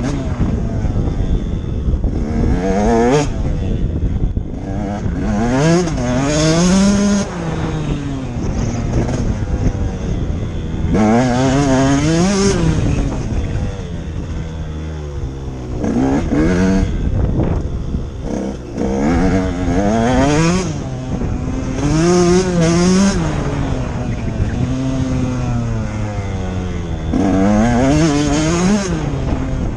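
Motocross dirt bike engine repeatedly revving up and backing off, its pitch rising and falling every few seconds as the rider accelerates out of the turns and shuts off into the next.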